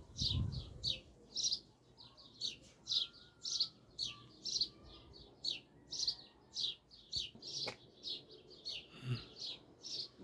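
A bird chirping repeatedly in short, high, downward chirps, about two or three a second without a break.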